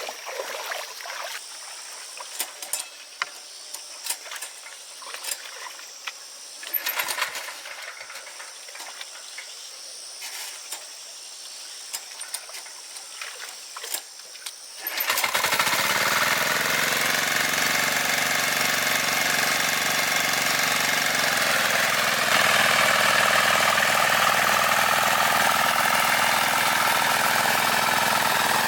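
Scattered knocks and scrapes of manual work over a faint high steady whine. About halfway through, a farm machine's engine starts suddenly and runs steadily and loudly to the end.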